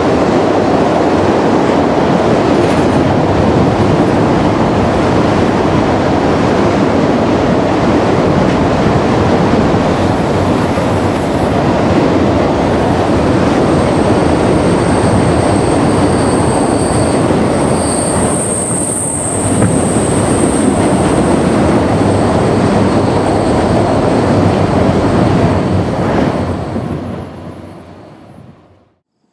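Freight train of enclosed autorack cars rolling by on a curve, a steady rumble of steel wheels on rail. From about ten seconds in it is joined by high-pitched wheel squeal. The sound fades away near the end.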